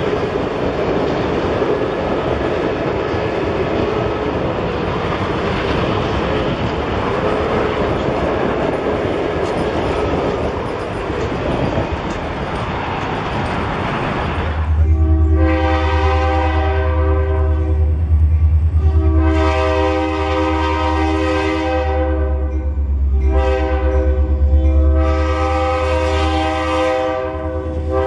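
Passenger coaches rolling past with a steady roar of wheels on rail. After about 15 seconds a diesel locomotive's air horn sounds a series of long blasts over the low, steady rumble of its engine.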